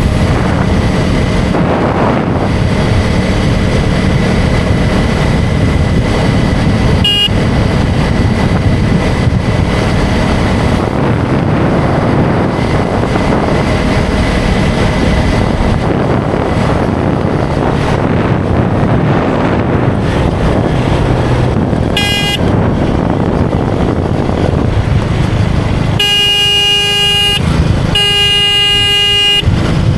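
KTM 250 Duke's single-cylinder engine running under steady wind noise at riding speed, with a vehicle horn honking: two short toots midway, then three long blasts near the end.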